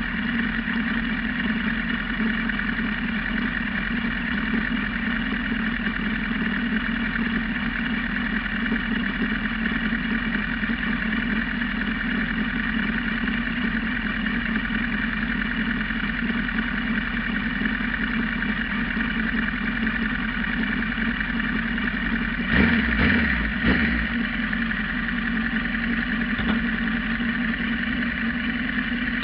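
Kawasaki GPZ900R's inline-four engine idling steadily at a constant pitch, fitted with an aftermarket muffler. Two short louder bumps come about 22 and 24 seconds in.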